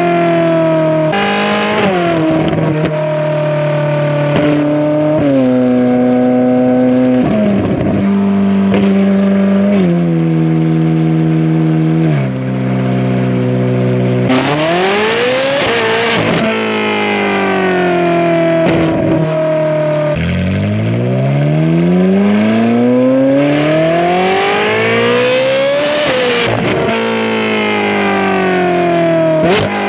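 Ferrari 458's naturally aspirated V8 through a titanium valved exhaust with free-flow bypass pipes, heard close to the tailpipes while the car is driven. The engine note drops in steps over the first dozen seconds, revs up sharply about halfway through, and then climbs long and hard under acceleration before a gear change near the end.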